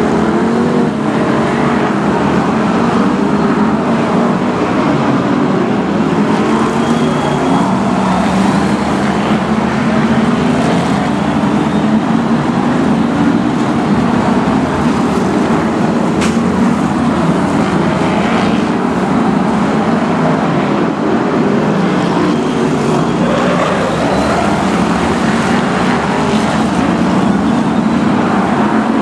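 BriSCA F1 stock cars racing: several big V8 engines running together, their pitch rising and falling as the cars lap.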